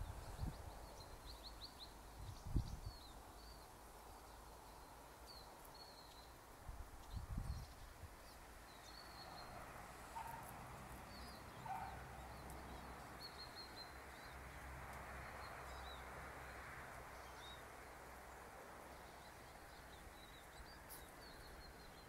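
Faint, high, short chirps of small birds, repeated on and off throughout, over a faint steady hiss. A few low thumps come near the start and again around 2.5 and 7 seconds in.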